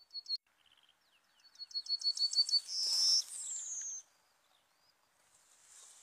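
Yellowhammer singing one song: a run of short, quickly repeated high notes, ending in a longer drawn-out note and a falling one.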